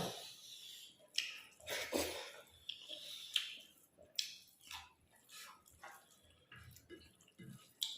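Close-up eating sounds: scattered short wet clicks and smacks of chewing a meal of rice, dal and chicken gravy.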